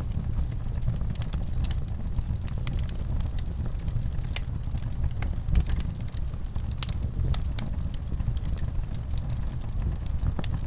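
Fire crackling: frequent sharp pops and snaps over a steady low rumble, with one louder pop about five and a half seconds in.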